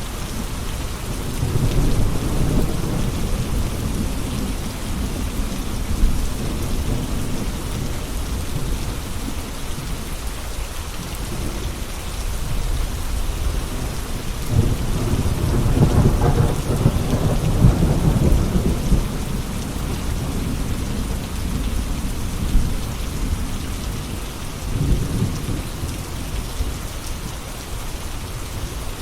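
Steady rain falling, with low rolls of thunder rumbling over it: a short roll near the start, a longer, louder one about halfway, and a smaller one near the end.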